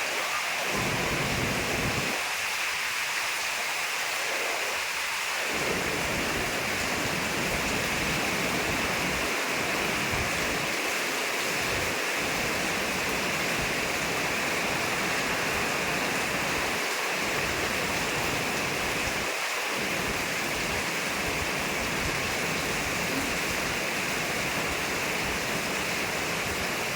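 Steady rain falling, with gusts of wind that come and go.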